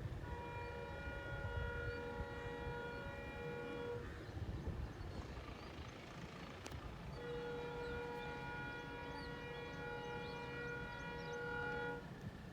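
Diesel locomotive horn of an Indian Railways WDP-4D sounding two long blasts of about four seconds each, a few seconds apart, over the low rumble of the approaching train.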